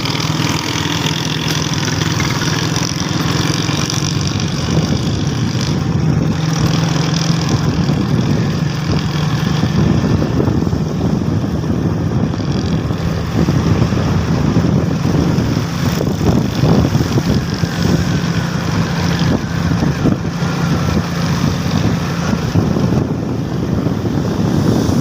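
A vehicle engine running steadily with a constant low hum, under continuous road and wind noise.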